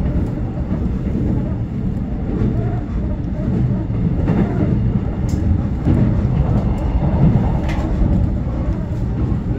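Commuter train running at speed, heard from inside the carriage: a steady low rumble of wheels on rail with a few faint clicks.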